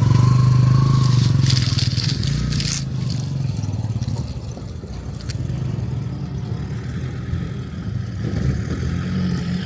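Vehicle engine running, loudest at first and then fading, with a cluster of scraping and rustling noises about two seconds in and another near the middle.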